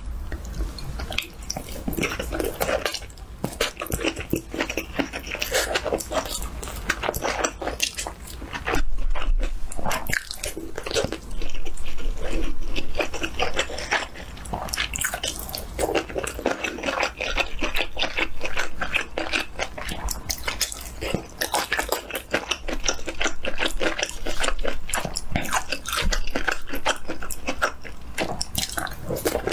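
Close-miked eating: biting and chewing of spicy sausage, rice and fried shrimp, with crunchy and wet mouth sounds coming in quick irregular clicks.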